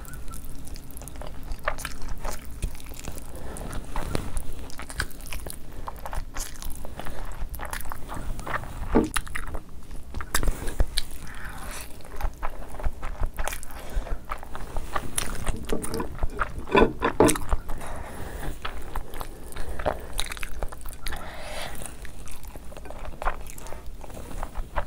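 Eating sounds: chewing on mouthfuls of soft, cheese-coated Samyang instant noodles pushed in by hand, with wet smacks and many short clicks.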